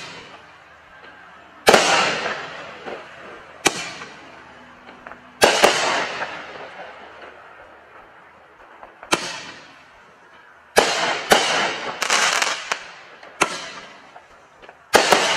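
A 16-shot consumer firework cake firing double-break shells: sharp bangs at uneven intervals, each trailed by a fading hiss, coming faster in the second half.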